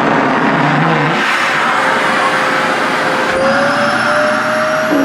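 Vacuum cleaner running loud and steady, a whooshing rush of air with a motor whine whose pitch rises slightly from about three seconds in.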